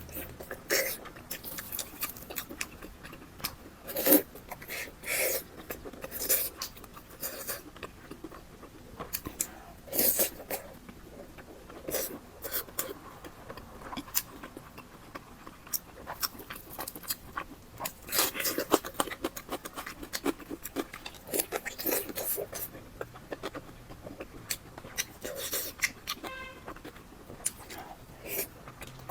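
Close-miked eating sounds of fatty pork belly being chewed: wet chewing and mouth smacks with many irregular sharp clicks.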